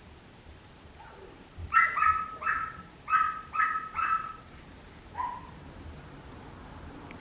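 Papillon puppy barking: a quick run of about six high-pitched yaps, then one more a second later.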